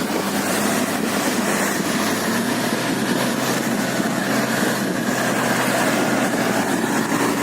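Toyota Land Cruiser engine running steadily while the vehicle drives off-road, a constant drone and hum with no revving or sudden knocks.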